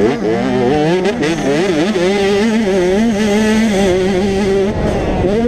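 85cc two-stroke motocross bike engine running at high revs, its pitch wavering up and down with the throttle, holding fairly steady in the middle and changing again near the end.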